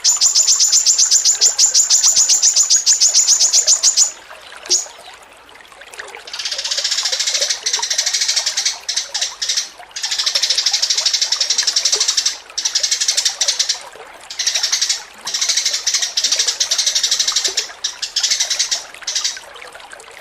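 Small songbird song, high-pitched and fast: a rapid even trill of about nine notes a second for the first four seconds, then after a short pause long phrases of dense buzzy chattering broken by brief gaps.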